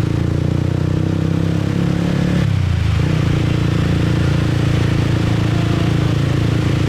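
Motorcycle engine running steadily while riding in traffic, with a brief break in the engine note about two and a half seconds in before it picks up again.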